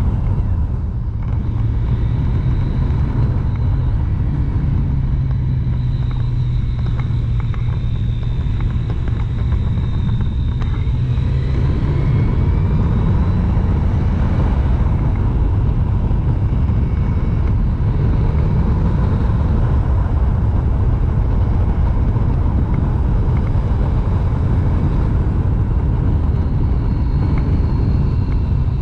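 Triumph Street Triple's inline three-cylinder engine running as the motorcycle is ridden through a series of bends, its low note shifting up and down with the throttle.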